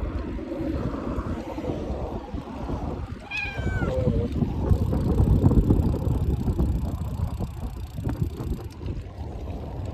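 A domestic cat meows once, one drawn-out call falling in pitch, about a third of the way in, over low wind rumble on the microphone. The cat is not yet at ease riding along and wants to get down.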